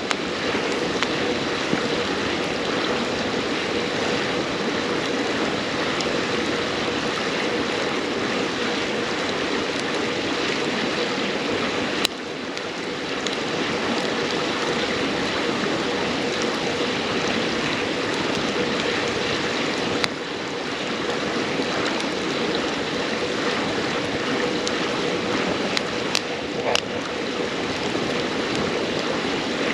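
River water flowing in a steady rush, with a few sharp pops of burning firewood crackling over it.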